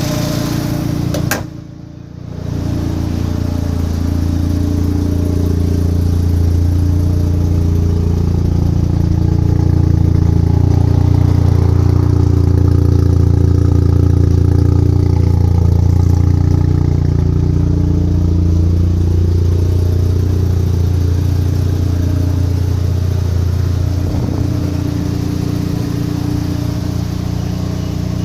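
Mazda RX-7 FD's single-turbo 13B twin-rotor rotary engine idling after a cold start, a steady low drone. About a second in there is a sharp click and the sound briefly drops before the idle carries on.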